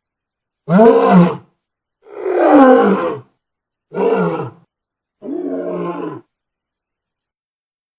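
Lion roaring: four separate calls, each about a second long with a falling pitch, the last one quieter than the others.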